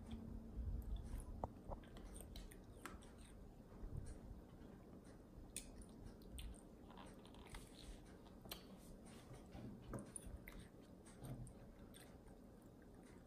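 A young child chewing and eating pieces of fruit, faint, with scattered light clicks of fingers picking food from a plastic divided plate.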